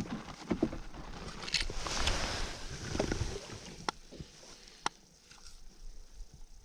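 Handling noise aboard a kayak: rustling and knocking with some water movement, and two sharp clicks about four and five seconds in.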